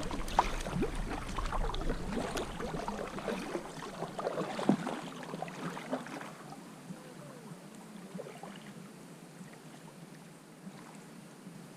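Kayak paddling: a paddle dipping and splashing in calm water, with small knocks against the hull, thinning out after about six seconds to faint water sounds.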